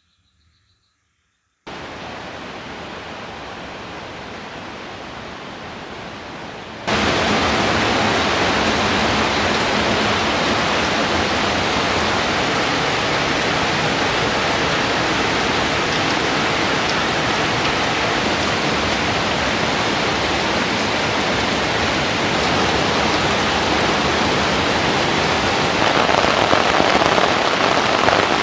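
Steady rain falling, an even hiss that starts after a brief silence and becomes abruptly louder about seven seconds in.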